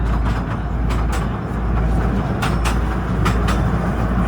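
Artouste narrow-gauge train running along the track: a steady low rumble, with its wheels clicking over the rail joints, often in pairs.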